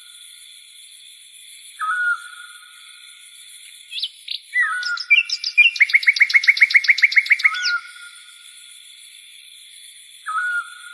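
Birds calling in open fields: a short hooked call repeated about every eight seconds, and a fast trill of about fifteen quick notes in the middle, over a steady high-pitched background whine.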